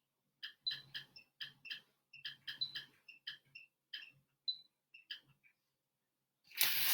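Quick, short drawing strokes scratching on paper, about two or three a second, followed near the end by a louder rustle.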